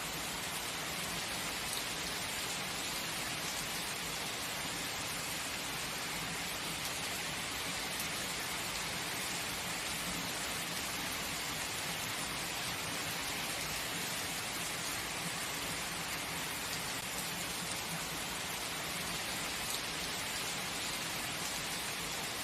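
Steady heavy rain: a dense, even hiss of rainfall on a surface, unchanging throughout.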